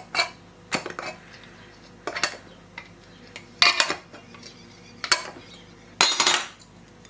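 Metal canning lids and screw bands being handled and fitted onto glass pint jars: a series of irregular sharp metallic clinks and clatters, with a longer rattle near the end.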